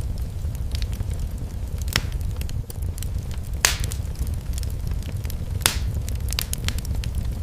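Wood fire in a fireplace crackling over a steady low rumble, with scattered sharp pops; the loudest come about halfway through and again a couple of seconds later.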